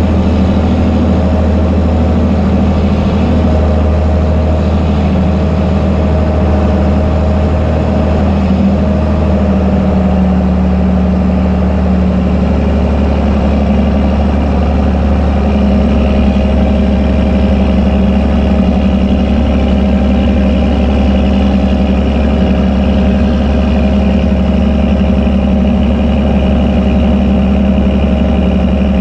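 Fendt Favorit 926 Vario tractor's six-cylinder diesel running steadily with an open exhaust pipe, a low drone, while packing haylage in a silage pit.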